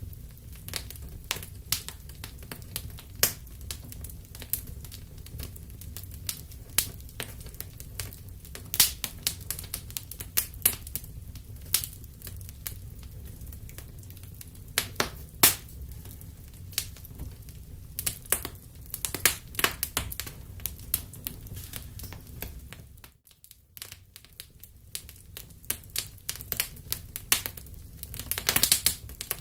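Wood fire crackling in a fireplace: irregular sharp pops and snaps over a low steady rumble. The sound briefly cuts out about two-thirds of the way in, then comes back, with a quick run of crackles near the end.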